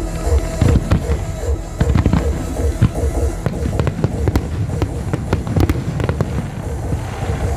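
Fireworks bursting over and over in sharp bangs and crackles, with music with a steady beat underneath.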